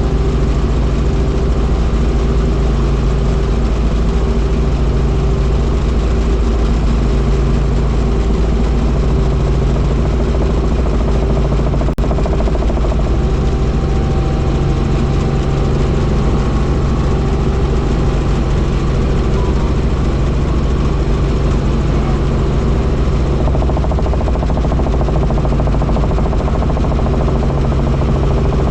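Helicopter in flight: steady, loud engine and rotor noise, with one brief click about twelve seconds in.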